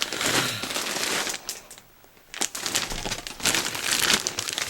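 A pair of cargo pants being handled and turned over, the fabric rustling and crinkling, with a short pause about two seconds in.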